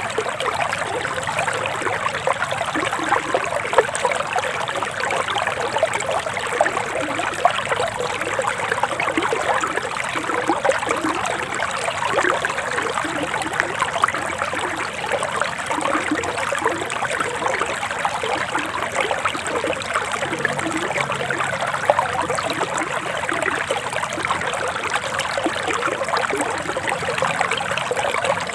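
Forest stream flowing steadily, a continuous trickling rush of water.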